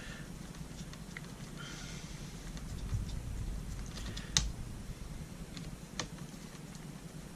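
Light, scattered clicks of small screws and a screwdriver being worked into the RC truck's plastic rear-end parts, with two sharper clicks about four and a half and six seconds in.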